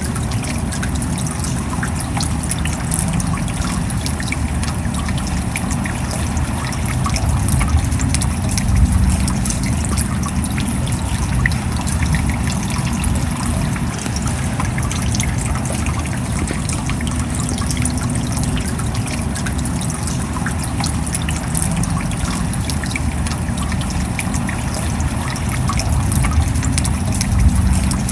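Steady rain falling, with dense small drop hits over a low rumble.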